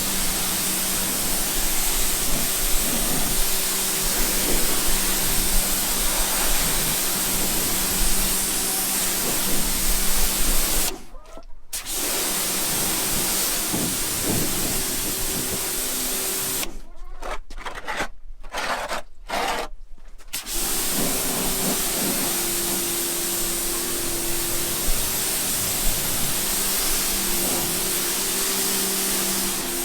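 Pressure washer running: a steady motor hum under the hiss of spraying water, cutting out briefly about a third of the way in and several times just past the middle.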